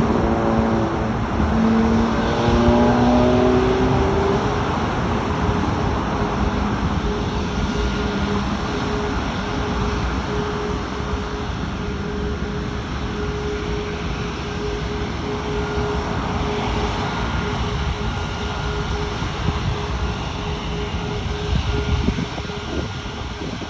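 Airbus A340-600's four Rolls-Royce Trent 500 jet engines running at high power on departure. Over the first few seconds several whining tones rise in pitch, then a steady whine is held over the engine noise, which slowly fades as the aircraft draws away.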